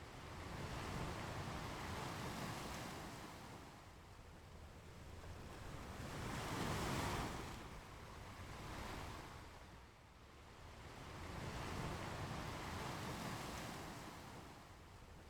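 Ocean waves breaking and washing up on a beach, swelling and ebbing in slow surges every few seconds. The biggest wave comes a little before the middle.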